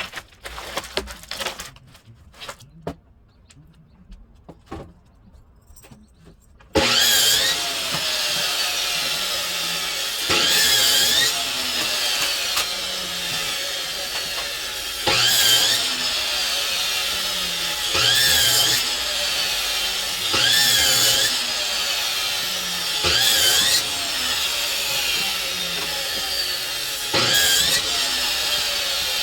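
A few light knocks and clicks, then about seven seconds in a power saw starts abruptly and runs on, cutting firewood, with louder swells every two to four seconds and a whine that bends in pitch.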